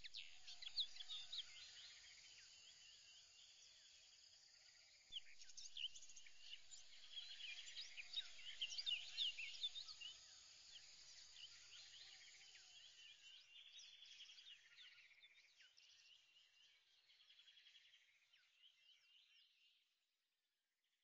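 Faint chorus of birds chirping and trilling in quick rising and falling notes, thinning out and fading away near the end.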